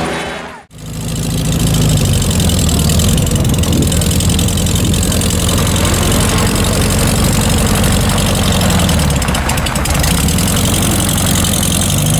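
A supercar's engine idling steadily, starting after a brief drop in the sound about half a second in.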